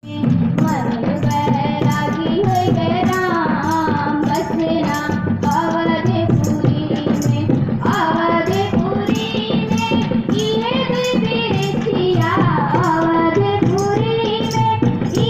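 A song sung by voices over a steady percussion beat of about two beats a second.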